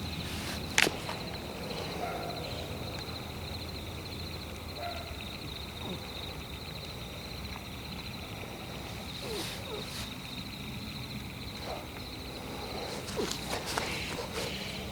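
Night forest ambience: insects chirping steadily in a high, pulsing trill over a low rumble, with a sharp snap about a second in and a few footsteps on the forest floor near the end.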